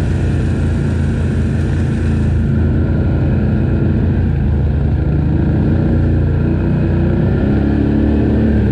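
ATV engine running while the quad is ridden along a trail, its pitch wavering up and down with the throttle and climbing a little near the end.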